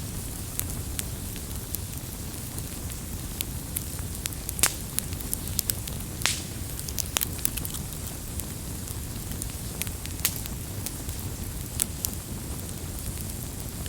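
Wood campfire crackling: a steady low rumble of burning with irregular sharp pops and snaps, the loudest about four and a half seconds in.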